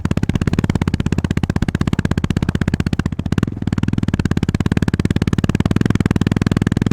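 Honda GB350S's single-cylinder four-stroke engine running under way, a fast, even train of exhaust pulses with a short dip in the pulsing about three seconds in, as the throttle eases briefly.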